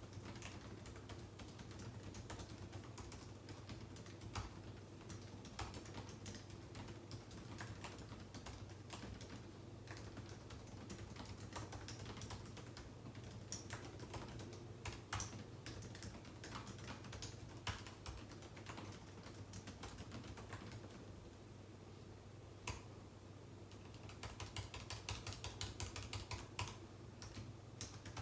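Typing on a computer keyboard: irregular runs of key clicks, thinning out about three quarters of the way through, then a fast burst of keystrokes near the end. A steady low hum underneath.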